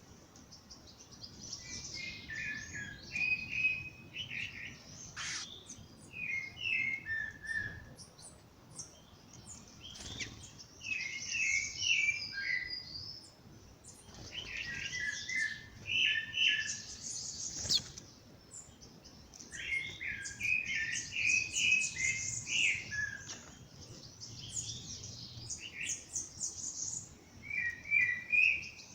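Several songbirds singing in a dawn chorus. One bird repeats a short warbled phrase every two to four seconds, and higher, thinner chirps and trills from other birds overlap it.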